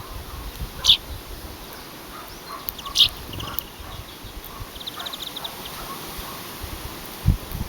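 Small birds chirping: a short sharp call about a second in and another about three seconds in, then a quick trill of about ten notes near five seconds, over a low rumble of wind on the microphone.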